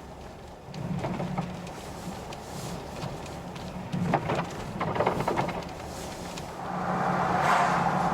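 Car driving, heard from inside the cabin: a steady low engine and road hum with a few knocks about four and five seconds in, and a louder rush of noise rising near the end.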